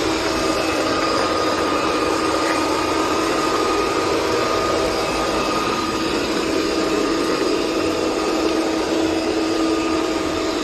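Steady whir of a small electric motor: a constant hum over an even rush of noise, with no change in pitch.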